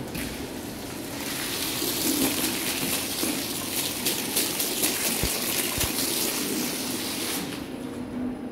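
Water spraying onto a carpet during rug washing. It starts about a second in and stops near the end, over a steady machine hum.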